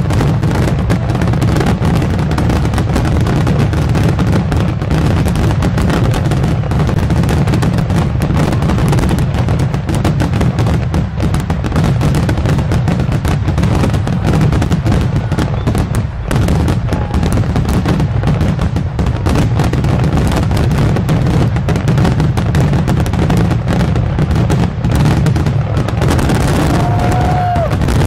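Aerial fireworks shells bursting in a dense, continuous barrage: rapid overlapping booms and cracks with no pause between them. This is typical of the finale of a large fireworks display.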